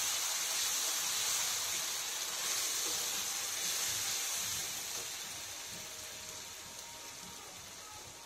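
Wet onion, ginger and garlic paste sizzling in hot groundnut oil in a steel kadai, a steady frying hiss that dies down over the last few seconds as the paste's moisture cooks off.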